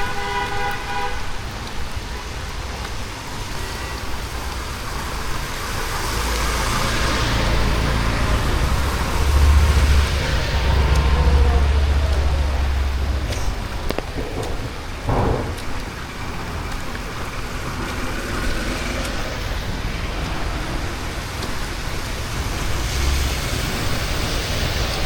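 Street traffic on a wet road: a vehicle horn sounds briefly, stopping about a second in, then a heavy motor vehicle passes with a deep engine rumble and tyre hiss, loudest around ten to thirteen seconds in.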